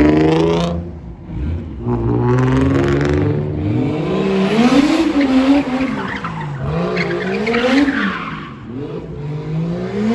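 Car engine revving hard, its pitch climbing and dropping again several times in a row.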